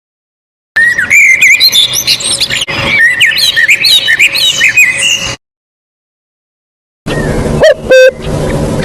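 Many small birds chirping and twittering at once, with dense overlapping short calls and whistles, cut off abruptly after about four and a half seconds. After a silent gap, a different recording starts with a low steady hum and a loud harsh call near the end.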